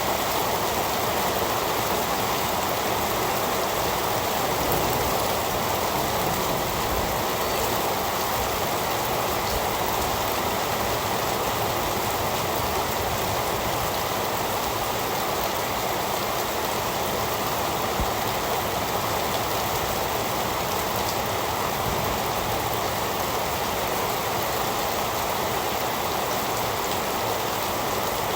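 Heavy rain falling steadily, an even hiss of rain with no thunder.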